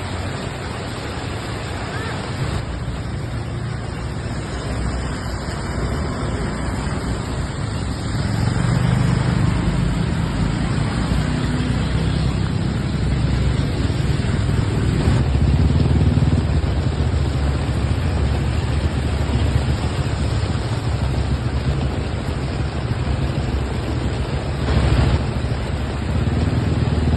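Steady traffic noise in heavy rain: vehicles moving on a wet, flooded road, with a low rumble that grows louder about eight seconds in.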